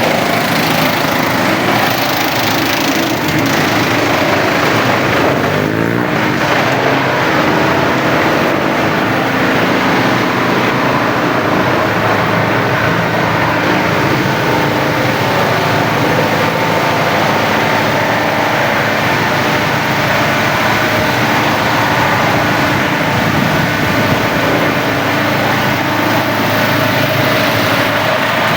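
Wood chipper running steadily with a loud engine drone, its pitch dipping briefly about six seconds in.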